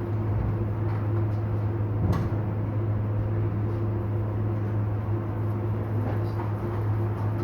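Steady low machine hum, with a single sharp knock about two seconds in and a few light clicks.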